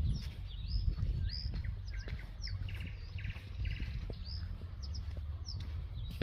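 Small songbirds chirping and calling, with quick curved chirps and a few short trilled phrases, over a steady low rumble.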